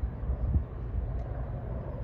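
Low, steady rumble of a train at a station platform, with a short knock about half a second in.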